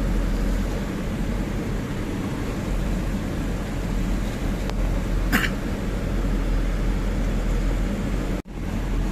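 Tata 1512 truck's diesel engine running with road noise as the loaded truck drives along a rough track. There is one short knock about five seconds in, and the sound drops out for an instant near the end.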